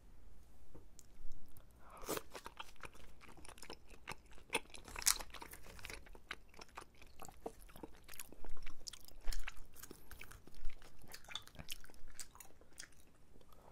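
Close-miked eating: two people chewing tteokbokki rice cakes and fried snacks, with many crisp crunches and wet mouth clicks starting about two seconds in.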